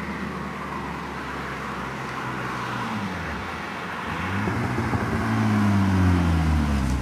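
1995 BMW M3's straight-six running through an Active Autowerke track pipe and UUC exhaust: steady for a few seconds, then rising in pitch and getting louder from about four seconds in, and falling in pitch near the end.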